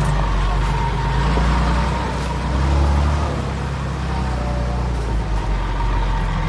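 Heavy diesel engine of earthmoving machinery running steadily under load, its low note shifting briefly about three seconds in.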